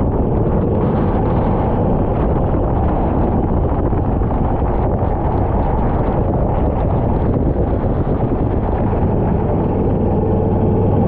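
Go-kart engine running on track, with wind buffeting the microphone: a steady, muffled noise.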